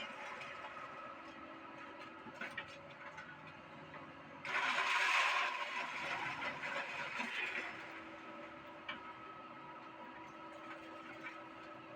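Doosan excavator running steadily with a constant hum. About four and a half seconds in, a loud noisy rush lasts a second or so and then fades away over the next two seconds, with a few small clicks around it.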